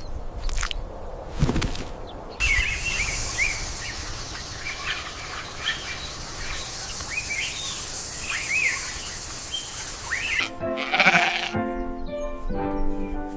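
Small birds chirping rapidly over a steady hiss. Near the end, an animal bleats, with music.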